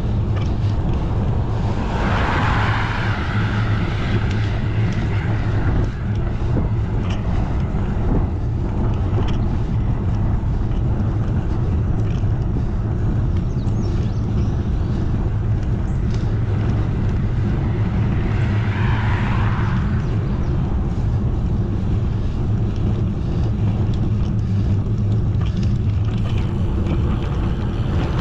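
Wind rushing over the microphone of a moving bicycle's camera, with steady low rumble from the ride. Two brief louder swells come about two seconds in and again past the middle.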